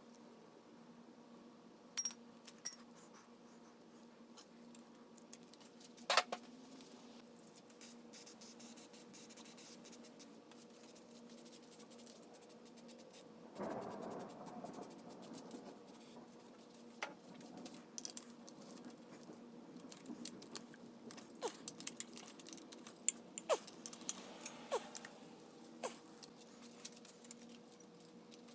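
Scattered light clicks and small metallic clinks of hand tools and loose engine parts being handled, coming more often in the second half. About halfway through there is a brief rustling scrape. A faint steady hum lies underneath.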